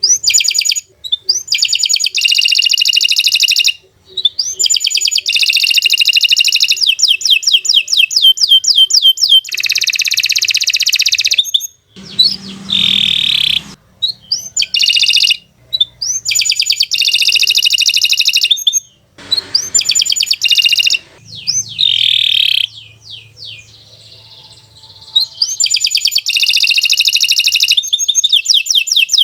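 Domestic canary singing a long, loud song of fast trills and rapid repeated notes, in long phrases broken by short pauses and one longer pause about two-thirds of the way in.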